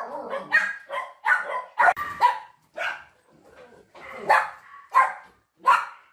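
Dog barking: a string of about ten short barks, with a pause of about a second midway.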